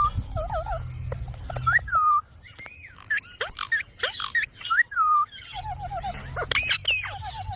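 Pet green parrot whistling and chirping: short falling whistles, quick wavering trills and sharp chirps, with a low rumble underneath at the start and near the end.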